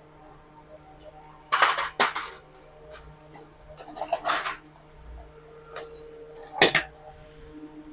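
Metal clanking and scraping as a motorcycle's rear axle is pulled out and the wheel is freed: a handful of sharp knocks spread over several seconds, the loudest near the end.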